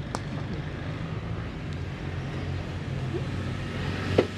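A motor vehicle engine running steadily. There is a faint click just after the start and a short, sharp sound about four seconds in.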